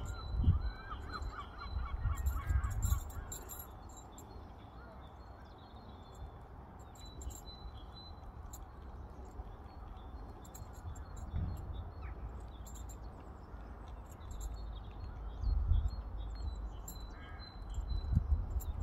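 A bird calling, a rapid series of short honking notes for a couple of seconds near the start and a brief call again near the end, over a low rumble.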